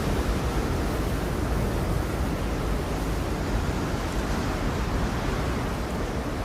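Steady rushing noise, heaviest in the low end, running without a break.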